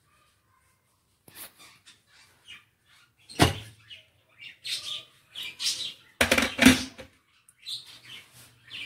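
Birds chirping in short irregular calls, with a few clicks and two louder knocks, about three and a half and six and a half seconds in, from kitchenware being handled.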